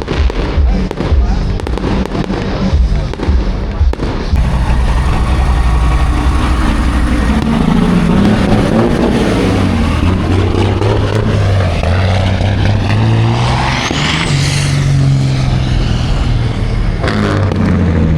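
A rapid string of sharp pops and crackles for the first few seconds. Then a large truck engine runs loud and steady close by, its pitch sweeping up and back down as it goes past about fourteen seconds in.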